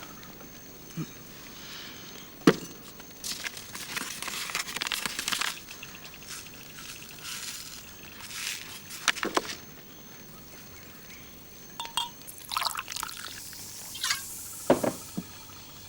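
Liquid being poured in short, intermittent stretches, with a sharp click about two and a half seconds in.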